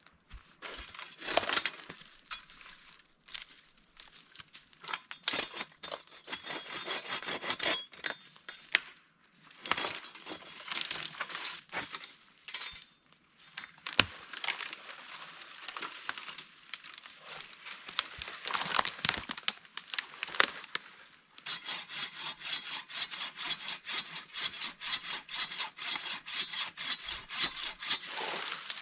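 Firewood being worked by hand: irregular cracking, snapping and scraping of wood, then a steady run of rhythmic hand-saw strokes over the last seven seconds or so.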